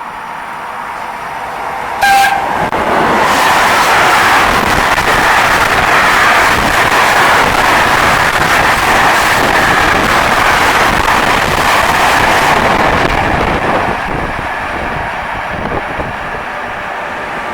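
A train passing through the station at speed: a short horn blast about two seconds in, then the loud, steady noise of the train going by, easing off over the last few seconds.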